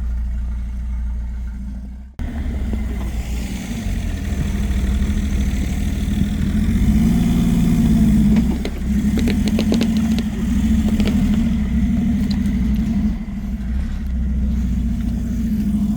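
An off-road vehicle's engine running and revving under load, with a short spell of clattering near the middle. The sound drops out briefly about two seconds in, then the engine carries on.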